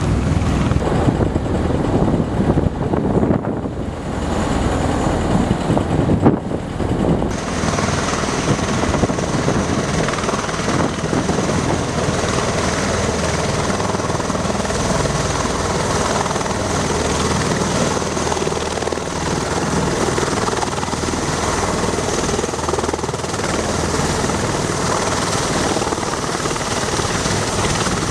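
MV-22B Osprey tiltrotor in flight: the steady thrum of its proprotors and the whine of its twin turboshaft engines. The sound turns brighter and hissier about seven seconds in.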